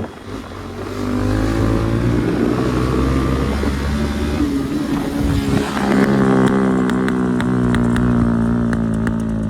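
Motorcycle engine running and revving as it accelerates, its pitch climbing and falling. From about six seconds in, a rapid run of sharp exhaust pops and crackles comes in over the engine.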